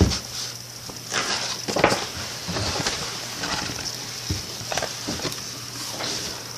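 Paper rustling and light knocks at irregular moments, as of a picture book being handled and its pages turned, over a faint steady hum and hiss.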